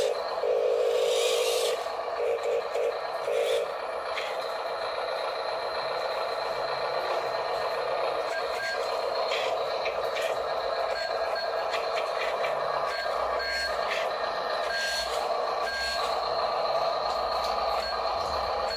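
Radio-controlled toy dump truck running: a steady whir from its small electric motors and gears. There are pulsed electronic beeps in the first few seconds and short high beeps now and then later.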